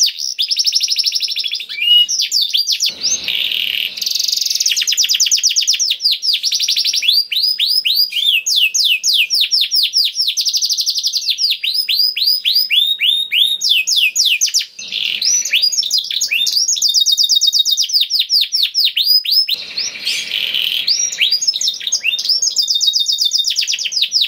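A male domestic canary singing a long song of fast trills and rolls, each phrase a rapid run of quick rising and falling notes, with only brief breaks between phrases.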